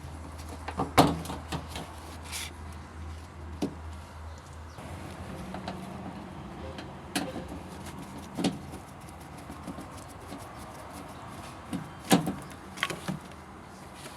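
Scattered sharp clicks and knocks, the loudest about a second in and near the end, over a steady low hum that shifts to a higher hum about five seconds in.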